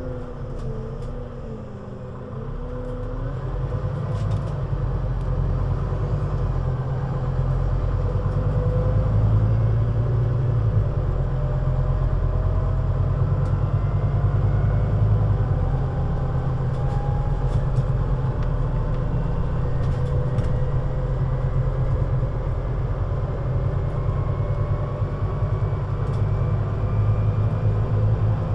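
Scania CN320UA city bus under way. The engine's low drone grows louder over the first several seconds as the bus accelerates, then holds steady, with a thin drivetrain whine rising slowly in pitch.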